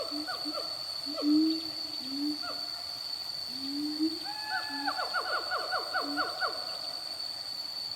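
Orangutan calling: a run of short, low hoots, many falling in pitch, that grow quicker and closer together about halfway through. A steady high-pitched whine runs underneath.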